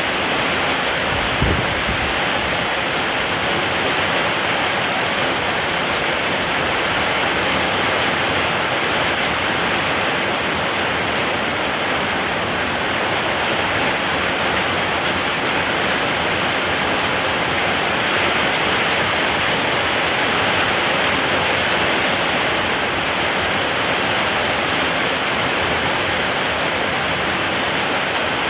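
Steady, even rainfall with a continuous hiss of heavy rain. There is one brief low thump about a second and a half in.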